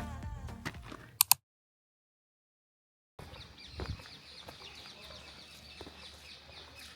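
Background music tails off and cuts to a couple of seconds of dead silence. Then comes a faint outdoor ambience of many birds chirping and calling continuously, with a single dull low thump about four seconds in.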